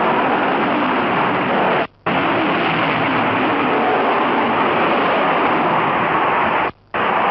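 Loud steady rushing noise, broken twice by abrupt gaps of near silence, about two seconds in and again near the end.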